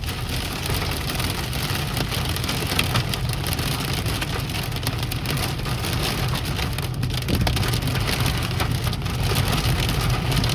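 Hail pelting a moving car's roof and windshield: a dense, continuous patter of small hits over the low rumble of the car on the road.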